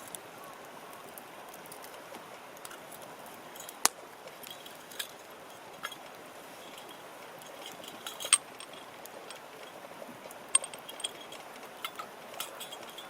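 Scattered sharp clicks and light metallic clinks, a few with a brief high ringing, about nine in all, over a steady low hiss.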